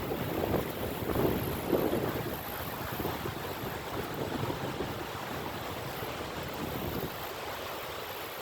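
Strong wind buffeting the microphone: a rushing roar in gusts, strongest in the first two seconds.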